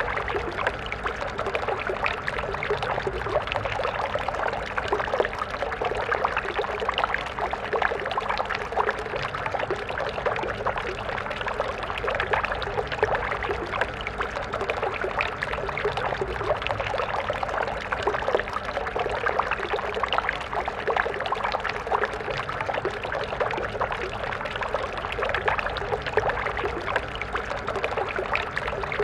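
Stream water flowing and splashing steadily, a constant rush of small bubbling splashes.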